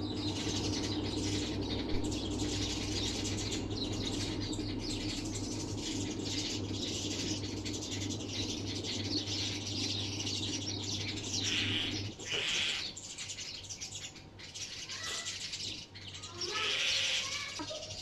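Many small birds chirping and chattering in dense, rapid chirps, with a few downward-sliding calls near the end. A steady low hum sits underneath for about the first two-thirds and then stops.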